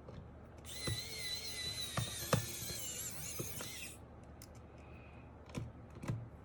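Small electric screwdriver whirring for about three seconds with a slightly wavering whine, then a few light clicks and knocks.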